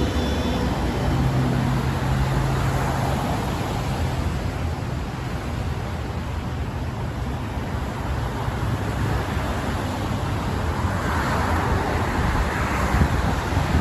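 Steady road traffic noise with a low rumble, with a hiss of passing tyres swelling toward the end.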